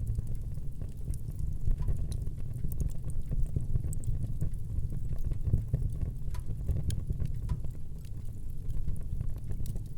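Wood fire burning in a fireplace: a steady low rumble of the flames with frequent small, sharp crackles and pops from the burning logs.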